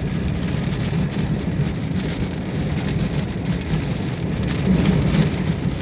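Car driving on wet roads in the rain, heard from inside: a steady low rumble of engine and tyres under a continuous hiss of rain and water spray.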